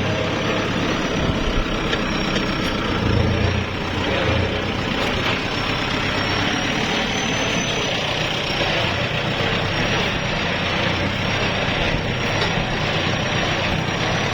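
Kubota tractor's diesel engine running steadily under load while ploughing.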